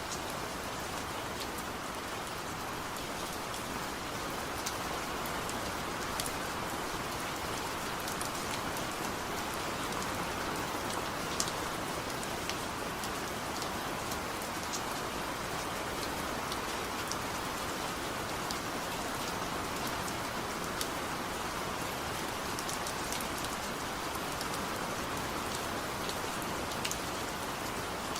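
Steady gentle rain, an even hiss with scattered sharp drops ticking on a hard surface; no thunder.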